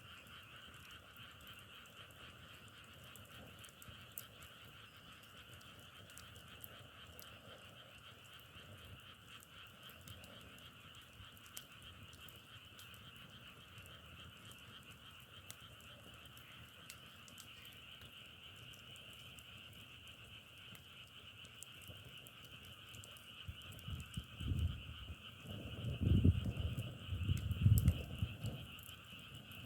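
A frog chorus, a steady unbroken mass of calling. Near the end, a few loud low rumbling bumps rise over it.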